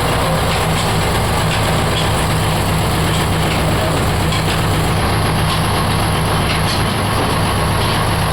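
Oil expeller running steadily: a constant low machine hum over a dense mechanical rumble, with faint ticks here and there.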